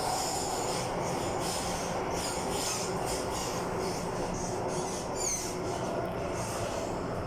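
MTR M-Train metro train running at speed, heard from on board: a steady rumble of wheels on rail with faint high wheel squeal, and a brief high squeal falling in pitch about five seconds in.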